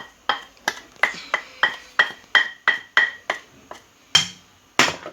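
A metal cooking utensil striking a metal pot over and over, about three ringing clinks a second, then two heavier knocks near the end.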